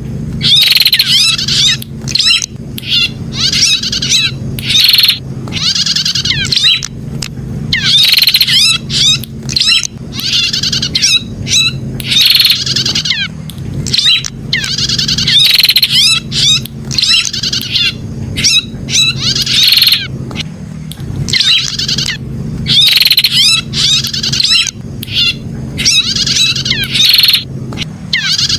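Prenjak (prinia) song: rapid bursts of high, trilling chirps repeating about every two seconds, over a steady low hum.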